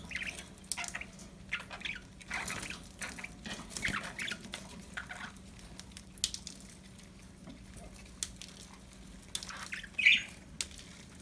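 Pet budgerigars chirping and chattering in short, irregular bursts, with the loudest sharp call about ten seconds in.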